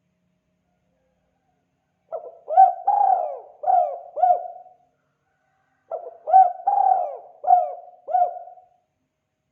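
Spotted dove (tekukur) cooing in the 'kuk 2' call style: two phrases of about five notes each, the first starting about two seconds in and the second about six seconds in.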